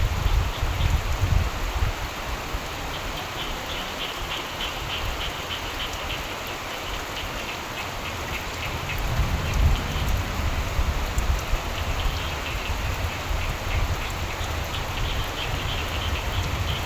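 Steady rainfall with frogs calling in trains of rapid pulses that come and go, and a low rumble that swells about nine seconds in.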